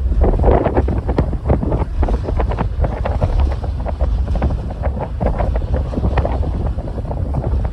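Wind buffeting the microphone: a steady low rumble with irregular gusty rustles, with no break.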